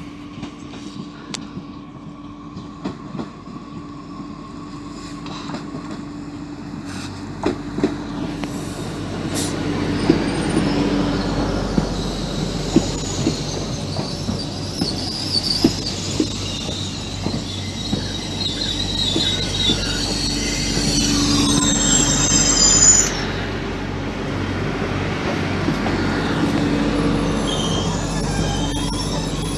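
Regional passenger train pulling into the station and slowing. A rumble builds as it approaches, with repeated clicks of wheels over rail joints as it passes close by. A high squeal from the running gear cuts off abruptly a little over three-quarters of the way through.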